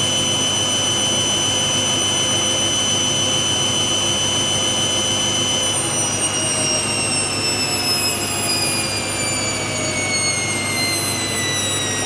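Hoover WDYNS654D washer dryer spinning, its motor giving a high whine that holds steady, then falls steadily in pitch from about halfway as the drum slows down. It is the spin between the main wash and the first rinse winding down.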